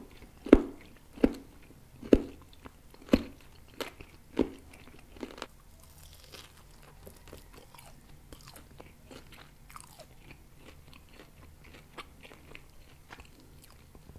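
Close-miked chewing of grilled pork rib meat with the mouth closed: a run of loud crunches about once a second that grow weaker over the first five seconds, then only soft, faint chewing clicks.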